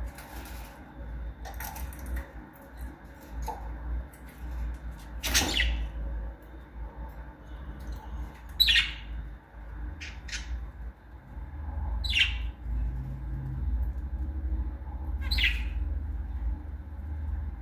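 Pet parrots giving about five short, sharp calls a few seconds apart, over a low steady rumble.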